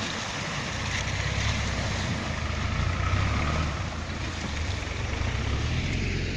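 A UAZ off-road vehicle's engine runs as it moves off again: a steady low engine note with a broad rushing noise over it.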